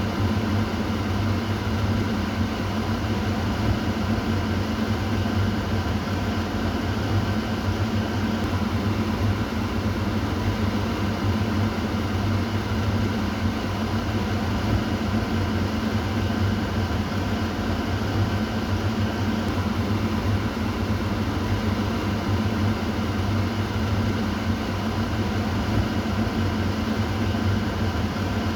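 Kitchen exhaust fan running steadily: an even whoosh of moving air over a low motor hum.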